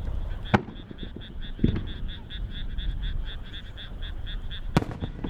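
Frogs calling in a fast, even pulsing chorus, about five pulses a second, with two sharp firework bangs (one about half a second in, one near the end) and a duller boom between them.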